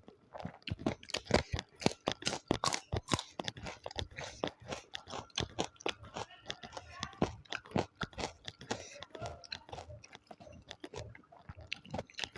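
Close-miked chewing with frequent crisp, crackling crunches as food is bitten and chewed.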